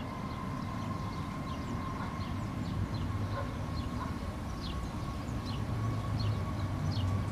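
Airbus A321 jet engines running at takeoff thrust from a distance, a steady rumble with a steady whine on top, mixed with strong wind rumbling on the microphone.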